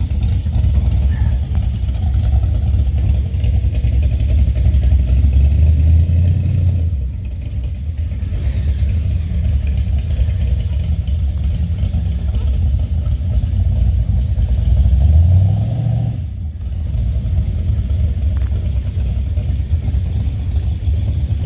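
Classic cars and hot rods driving past with a low engine rumble that swells louder twice, each time dropping off suddenly.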